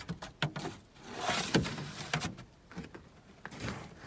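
A snow shovel scraping and chipping at a crusted layer of ice and snow, with several sharp knocks and two longer rasping scrapes, about a second in and again near the end.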